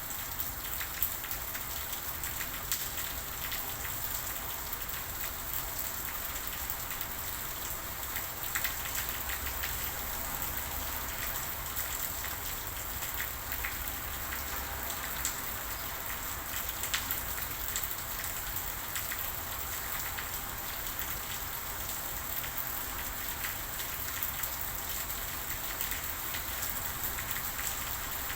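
Steady rain falling: an even hiss dotted with many small drop ticks, with a faint low rumble underneath.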